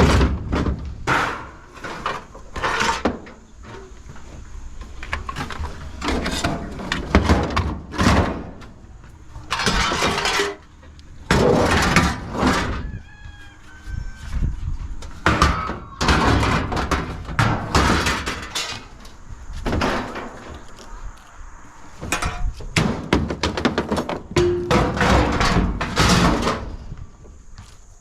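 Scrap metal being thrown and dropped into a pickup truck bed: a string of irregular clanks and bangs, some pieces ringing briefly after they land.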